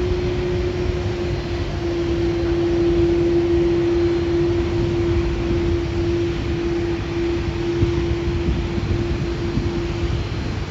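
Jet airliner engines running: a steady drone with one held tone over a low rumble.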